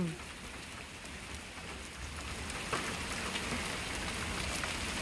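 Steady rain falling, growing slightly louder, with a few sharper drops now and then.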